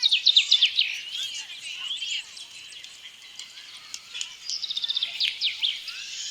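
Many small birds chirping and twittering together. There is a loud run of rapid, quick-falling chirps at the start and another around five seconds in.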